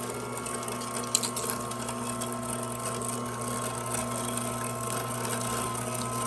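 Amzchef ZM1517 slow masticating juicer's electric motor running steadily, driving the meat-grinder auger as pork goes through, with a couple of light clicks about a second in.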